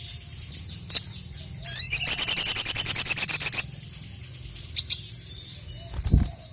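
Sogon (sogok ontong) songbird calling: a single sharp chirp about a second in, then a loud, rapid run of repeated high notes lasting about two seconds, then two short chirps. A low thump near the end.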